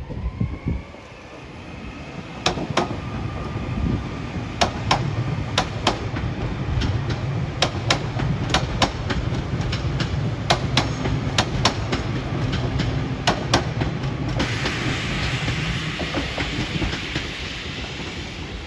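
Northern class 331 electric multiple unit passing at moderate speed with a steady rail rumble. Its wheels click sharply, mostly in close pairs, as each bogie's axles cross rail joints and points. A broad hiss comes in suddenly about three-quarters of the way through.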